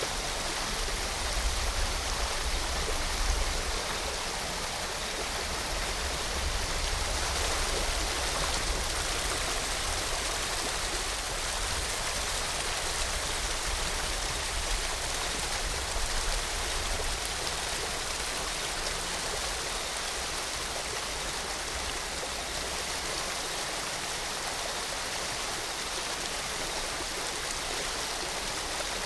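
Steady rushing of a waterfall mixed with rainfall, an even hiss throughout. Under it a low rumble, typical of distant thunder, rolls through the first half and fades away after about twenty seconds.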